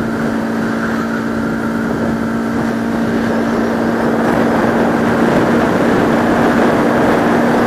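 Bajaj Pulsar RS200 single-cylinder motorcycle engine running at a steady cruise, heard from a helmet camera with wind rushing over the microphone; the sound grows a little louder through the second half.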